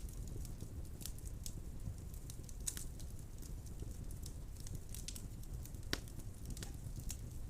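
Wood fire burning in a fireplace: a steady low rumble of flame with irregular sharp crackles and pops from the burning logs, one louder pop about six seconds in.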